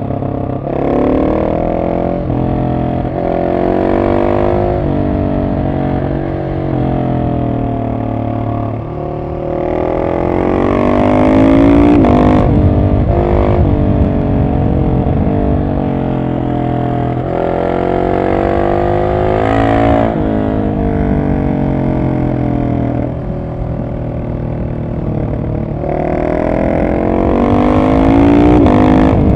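Husqvarna 701 SM's single-cylinder engine through a de-catted Arrow exhaust with its dB killer in, revs climbing and dropping again and again as the bike is ridden. It is loudest about a dozen seconds in and near the end.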